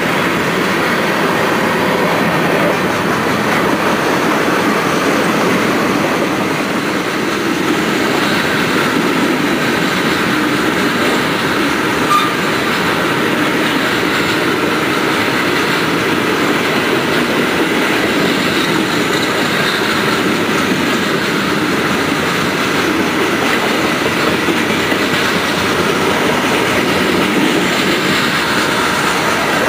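Steel wheels of a CSX freight train's covered hopper cars rolling past on the rails: a steady, loud rolling noise that does not let up, with one brief sharp click about twelve seconds in.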